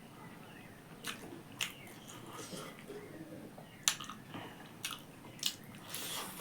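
A person chewing and biting food up close, with several sharp crunchy bites: one about a second in, a loud one near the four-second mark, and a longer crunch near the end.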